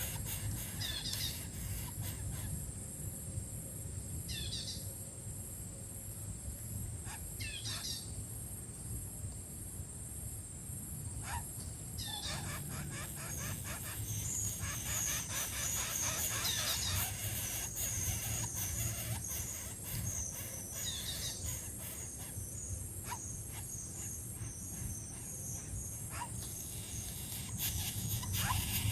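Birds chirping: short high calls that sweep downward come every few seconds, and about halfway through a fast run of high twittering starts. Underneath runs a steady high whine and a low rumble.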